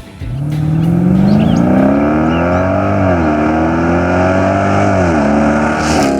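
A 5.7-liter Hemi V8 in a Dodge Durango running through a stainless 3-inch catback exhaust with an X-pipe, accelerating. The exhaust note climbs in pitch, drops twice as the transmission shifts up, about three and five seconds in, then holds steady.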